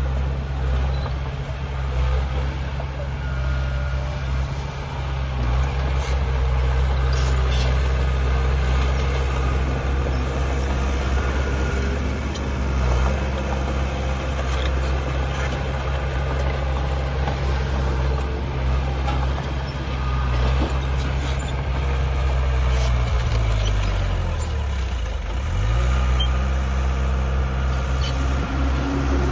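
Diesel engine of heavy earthmoving machinery running steadily under load. Its pitch drops and then rises again about three-quarters of the way through.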